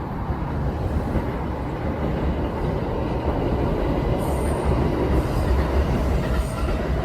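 Kintetsu electric train passing close by: a steady rumble of wheels on rail that grows slightly louder, with short high-pitched wheel squeals from about four seconds in.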